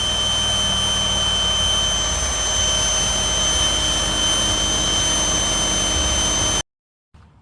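Intex 110-volt electric air pump running steadily, blowing up an air mattress, a loud rush of air with a high steady whine. It cuts off abruptly about six and a half seconds in.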